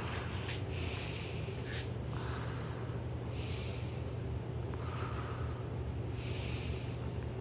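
Holmes Blizzard HAOF87 oscillating fan running on high, a steady motor hum under the rush of air, with a whoosh of air swelling about every second and a half. The motor runs smoothly even though its bearings have not been oiled.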